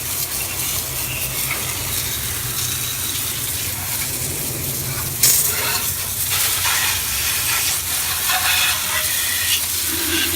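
Garden hose spraying water over a car's engine bay: a steady hiss of water striking the engine, with a brief louder spurt about five seconds in.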